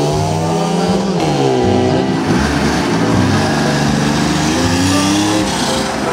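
A vintage motorcycle engine pulling away, its pitch falling, then a classic Porsche 911's air-cooled flat-six revving and accelerating hard away from a standing start, its pitch climbing in repeated sweeps through the gears.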